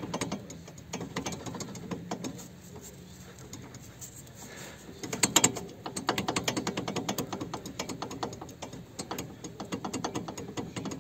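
Ratchet wrench clicking in quick runs as a wheel bolt is turned, loudest about five seconds in.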